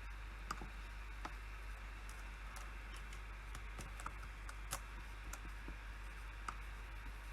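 Slow, irregular keystrokes on a computer keyboard, about a dozen separate taps with gaps between them, over a steady background hiss.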